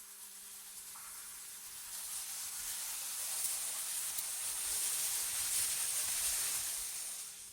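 AI-generated wind ambience: an airy, hissing rush of wind that swells louder over a few seconds and eases off near the end, over a faint steady low hum.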